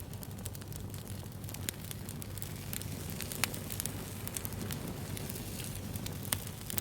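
Wood bonfire burning: a steady low rumble of flames with many small crackles and snaps, and a couple of sharper pops, one about halfway through and one near the end.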